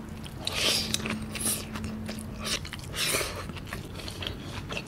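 Close-miked chewing of a mouthful of rice with bamboo shoots in coconut gravy, eaten by hand, with a few louder chewing noises spaced about a second apart.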